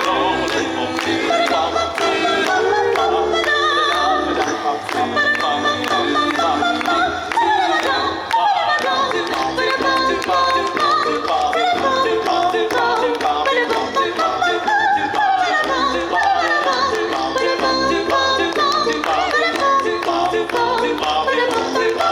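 A small choir singing a cappella in close harmony, several voices at once, over a steady beat.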